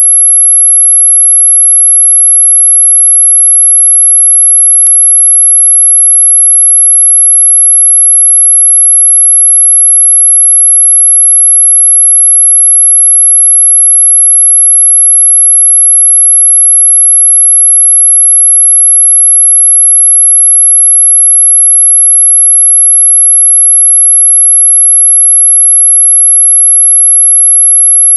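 A single steady, high-pitched sine tone of about 11 kHz, an electronically generated mosquito-repellent tone billed as ultrasonic, holding one unchanging pitch, with one faint click about five seconds in.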